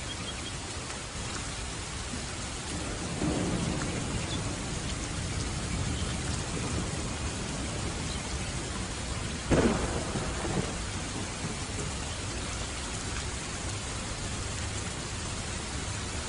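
Steady heavy rain falling, with thunder: a low rumble builds about three seconds in, then a sharper, louder thunderclap comes a little past halfway and rolls away.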